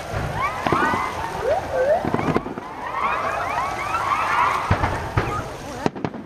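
Many whistling fireworks going off together: overlapping short whistles that sweep up and down in pitch, with a few bangs among them. Near the end they give way to sharp crackling pops.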